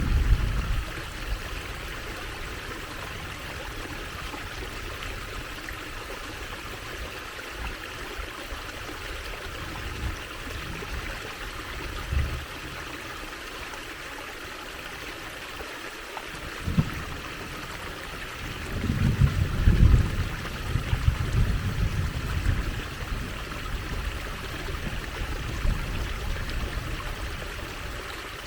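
Water trickling steadily, a continuous even splashing. Low rumbles break in briefly a few times, the longest lasting a few seconds past the middle.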